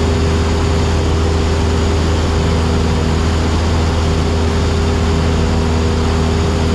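Cessna 172SP's four-cylinder Lycoming IO-360 engine and propeller in flight, a steady drone heard inside the cabin with no change in pitch.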